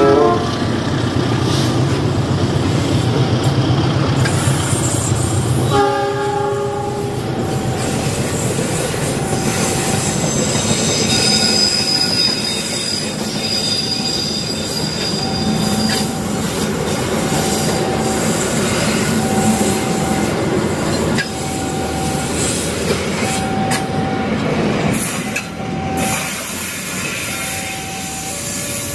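KAI CC 206 diesel-electric locomotive passing with a steady engine hum, and a short horn blast about six seconds in. The passenger coaches then roll by with steady wheel-and-rail noise, a short tone recurring about every two seconds, and a thin wheel squeal partway through.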